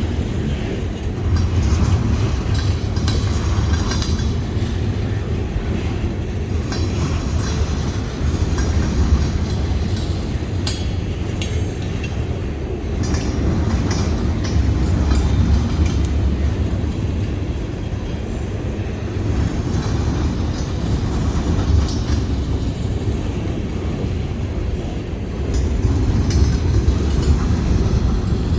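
Freight train rolling past with a steady low rumble and wheels clacking over the rail joints.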